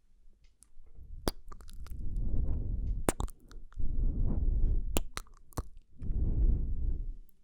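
Close-miked ASMR mouth sounds: wet clicks and smacks of lips and tongue, scattered through, with three swells of low rumbling noise lasting a second or so each.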